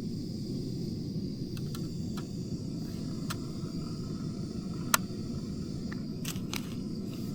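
Cooking fire with a steady low rush and a few sharp crackling pops, the loudest about five seconds in.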